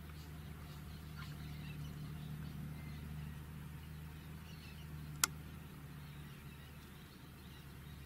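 Faint, scattered short bird chirps over a steady low hum, with one sharp click a little past the middle.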